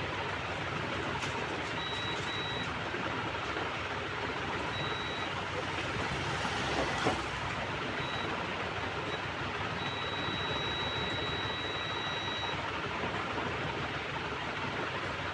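Multimeter continuity buzzer giving short high beeps as the probes touch the amplifier's output MOSFETs, then a long beep of about two and a half seconds, the tone that signals a short, over a steady background hiss.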